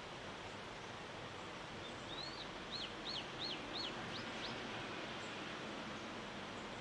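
A songbird sings a run of about seven quick, high, slurred notes, about three a second, starting about two seconds in. A steady outdoor background hiss continues underneath.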